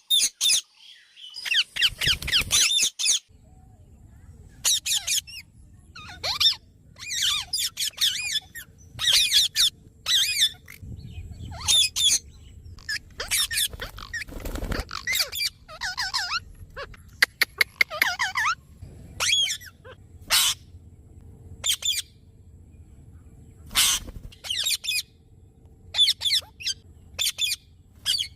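A parrot calling: short, harsh squawking calls in quick bursts, repeated every second or two, some bursts a run of several calls together.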